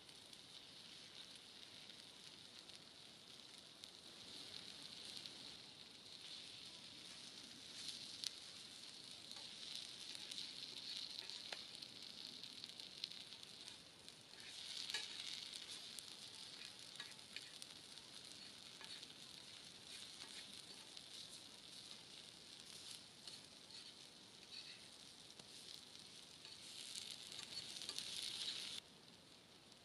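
Chicken sizzling as it cooks over a campfire: a faint, steady frying hiss with scattered small pops, cutting off abruptly near the end.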